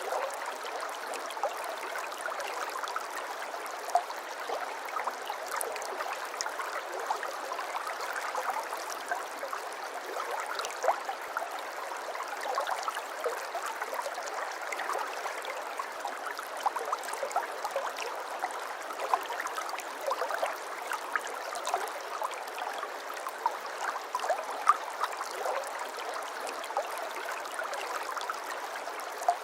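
Shallow stream water burbling and trickling steadily, with many small splashes and gurgles.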